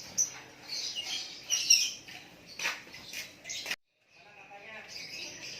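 Lakbet songbird chirping: a string of short, high chirps and trills. The sound cuts out for a moment about four seconds in.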